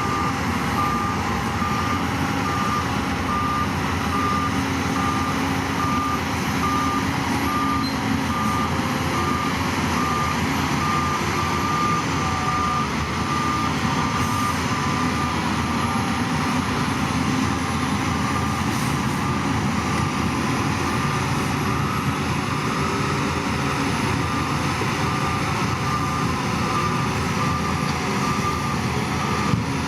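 Reversing alarm on heavy equipment beeping at a steady, even rate over a diesel engine running.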